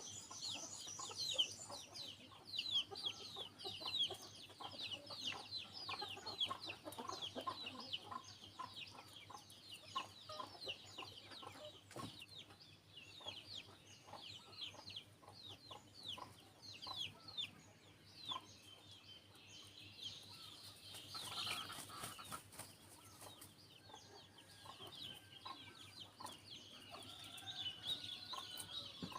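Sunbird calling in rapid, short, high chirps, many a second, with chickens clucking in the background.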